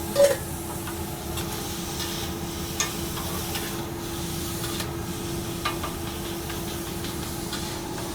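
Steak and butter sizzling on a griddle, a steady hiss, with a few short sharp knocks, the loudest about a quarter second in. A steady hum runs underneath.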